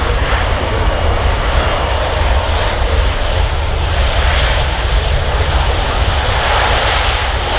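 Airbus A380 on its landing roll with its engines in reverse thrust to slow it down: a loud, steady jet roar with a deep low rumble.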